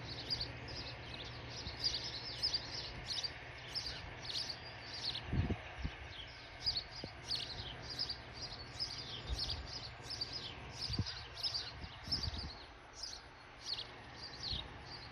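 Nestling birds chirping: a steady run of short, high chirps, each dropping in pitch, two or three a second, with a few brief low bumps.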